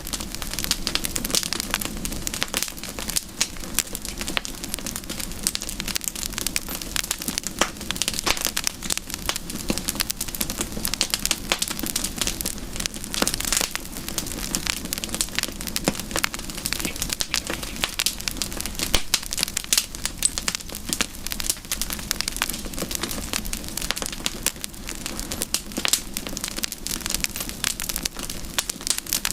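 Wood campfire burning, with dense, continuous crackling and popping.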